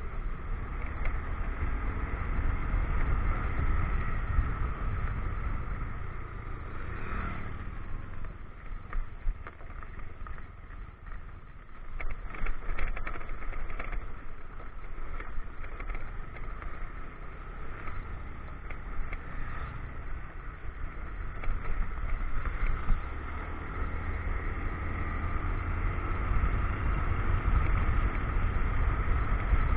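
Motorcycle riding along: wind rumbling on the action camera's microphone over the running engine, growing louder near the end.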